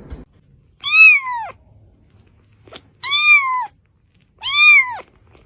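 A cat meowing three times, loud high-pitched meows, each rising and then falling in pitch, with short pauses between them.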